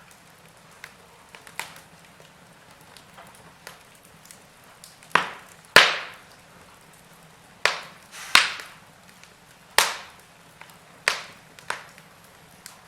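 Wood fire burning in a fireplace, crackling over a soft hiss: a few small crackles, then a run of loud sharp pops from about five seconds in.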